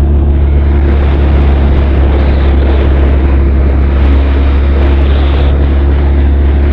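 Benelli TRK 502's parallel-twin engine and exhaust running at a steady cruise in third gear, picked up close to the exhaust from the saddlebag. Wind and road noise run over it.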